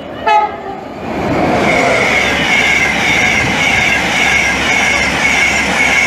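An InterCity 225 set, a Class 91 electric locomotive with Mk4 coaches, running past at speed. A short, loud tone comes about a third of a second in. From about a second in there is a loud, steady rail rush with a high squealing tone that pulses roughly every half second.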